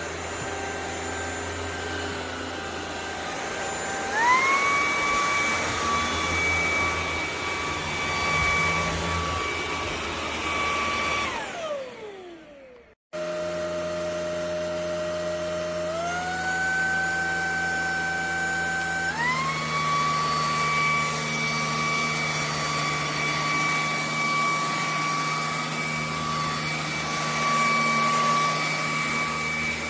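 ElecKeys K10 cordless stick vacuum's motor running with a steady high whine. It steps up in pitch about four seconds in, then winds down and stops a little before halfway. A second later it starts again lower and steps up twice more.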